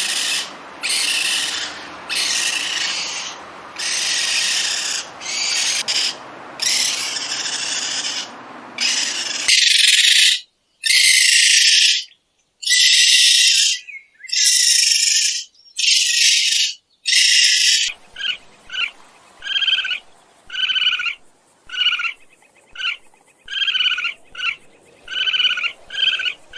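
Raccoon calls: a long run of harsh, noisy screeching calls, roughly one a second, then in the last third shorter, pitched chirping calls in quicker succession.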